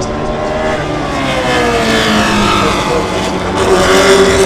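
Racing car engines running hard and growing louder. The engine note slides down over the first couple of seconds, then holds lower.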